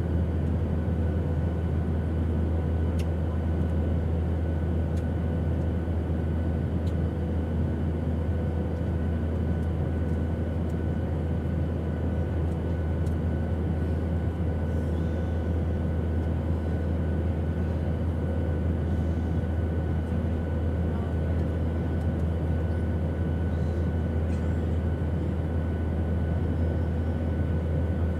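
Airplane engine drone: a steady, unchanging low rumble with a faint steady hum of higher tones above it.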